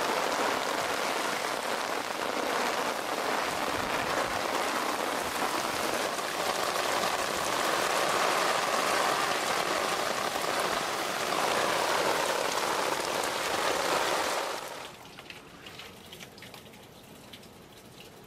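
Heavy downpour pelting an outdoor garden railway, a dense steady hiss of rain. It cuts off abruptly about fifteen seconds in, leaving a much quieter background with faint scattered clicks.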